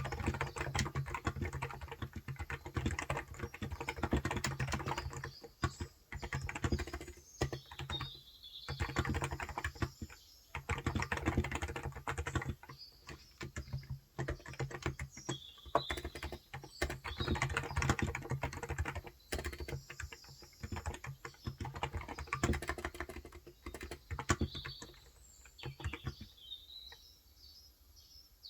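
Typing on a Cox Endeavor electrostatic capacitive (35 g, contactless) tenkeyless keyboard: dense runs of keystrokes broken by short pauses. Birds chirp faintly a few times in the background, most clearly near the end when the typing stops.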